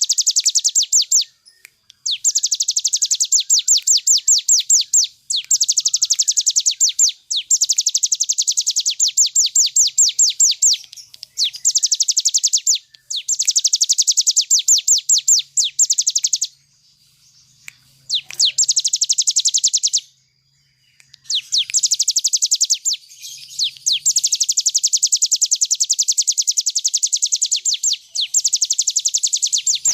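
Hill prinia (ciblek gunung) singing in long, rapid trills of sharp, high, repeated notes, each run lasting one to four seconds with short breaks between: the fast, rattling delivery that keepers call ngebren.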